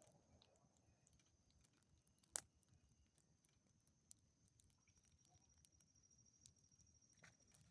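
Near silence broken by a few faint, sparse pops and crackles, the sharpest about two and a half seconds in, as from burning wood in a bonfire. A faint, steady high tone runs underneath.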